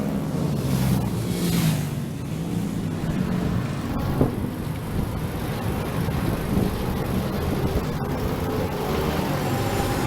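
Racing motorcycles at high revs, their engine pitch rising and falling as they pass and change speed, with a steadier engine sound between passes.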